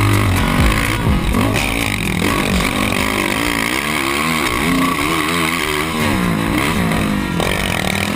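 Yamaha YFZ450R quad's single-cylinder four-stroke engine through an aftermarket Rossier exhaust, loud and revving up and down repeatedly as the throttle is worked around the track.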